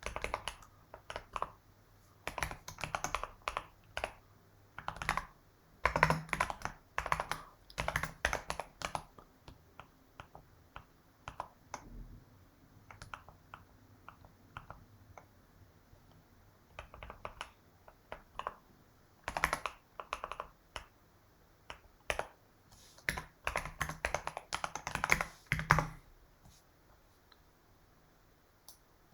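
Typing on a computer keyboard in quick bursts of keystrokes with short pauses between, stopping a few seconds before the end.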